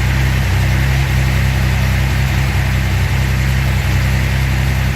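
Freshly rebuilt Datsun L24 straight-six engine of a 1970 240Z idling steadily and evenly, a smooth running sound.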